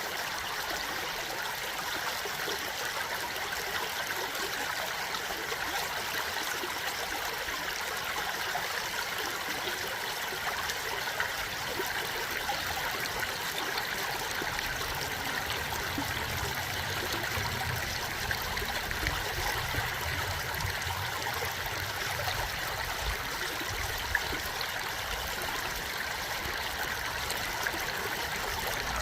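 A stream of water flowing steadily with a continuous rushing and trickling, with a deeper rumble coming in about halfway through.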